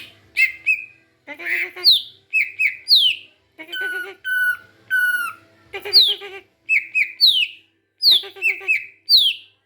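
A young songbird calling over and over: short falling whistles, clipped repeated chirps and harsher squawky calls, one after another with only brief pauses.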